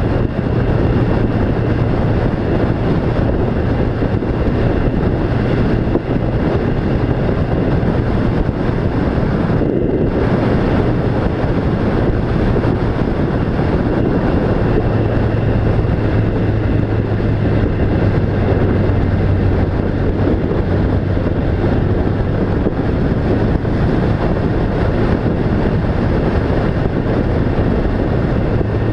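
A vehicle running steadily: a low engine hum under continuous rushing noise, the hum dropping slightly in pitch about halfway through.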